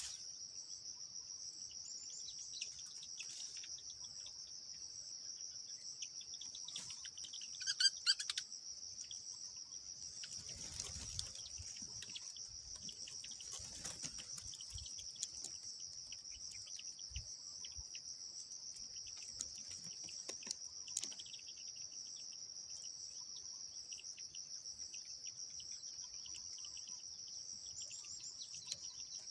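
Steady high-pitched drone of insects such as crickets, with a short burst of bird chirps about eight seconds in, the loudest sound, and another brief call near twenty-one seconds.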